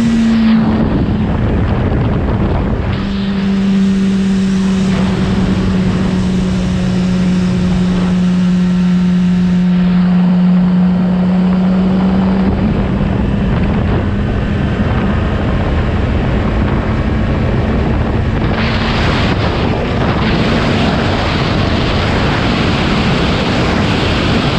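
Yamaha YZF-R6 inline-four sport bike engine running at steady revs while riding, under heavy wind noise on the microphone. The wind rush grows louder in the last quarter.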